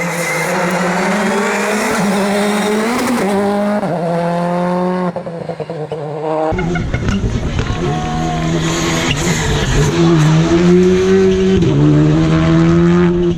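Rally car engines at high revs on a stage: one engine pulls hard and shifts up through the gears, then about six and a half seconds in another car's engine takes over abruptly, its pitch rising and falling as it works through the corners.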